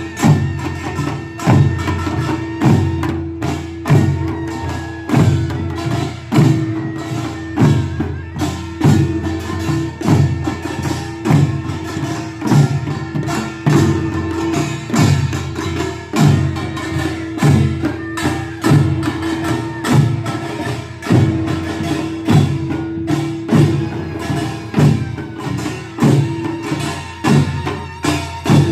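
Korean pungmul percussion for a jisinbapgi ritual: gongs and drums beat a fast, driving rhythm over a steady held tone.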